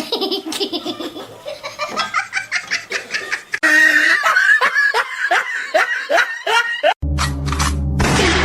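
A person laughing in repeated rhythmic bursts, then cut off about seven seconds in by music with a steady bass.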